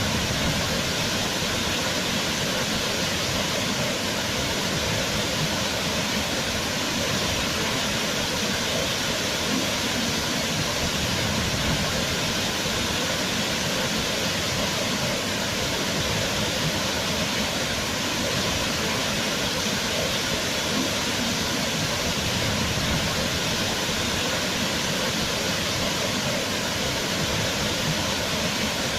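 Waterfall: water falling and splashing in an even, unbroken rush.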